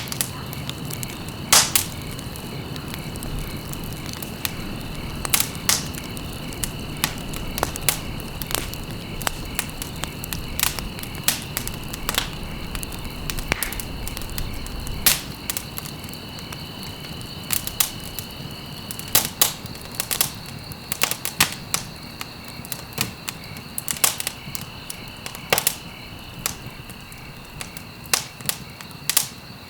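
Campfire burning, with irregular sharp crackles and pops of burning wood over a steady low rumble of the flames.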